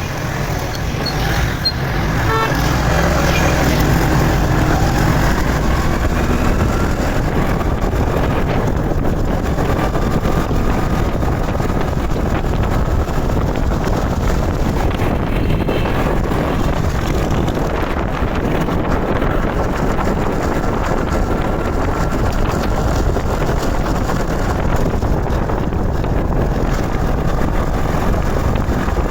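Road and wind noise from a motorcycle riding through city traffic, steady throughout, with vehicle horns sounding now and then.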